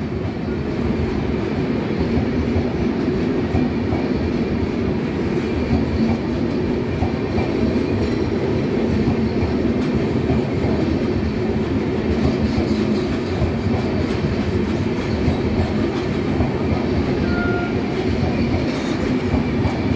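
Passenger coaches of a departing express train rolling past, their wheels running over the rails and points in a steady rumble and clatter.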